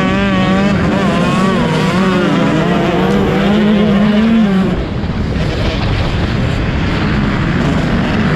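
Motocross bike engines racing, the nearest bike's engine revving and wavering in pitch with the throttle. About halfway through it drops away and leaves a more distant engine noise.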